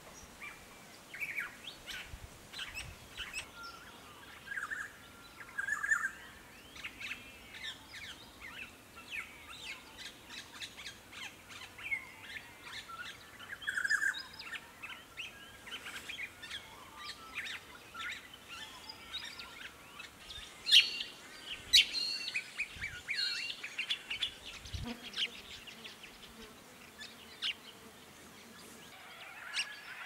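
Woodland birds calling: a busy mix of short chirps and whistled notes, with two loud, sharp notes about three-quarters of the way through.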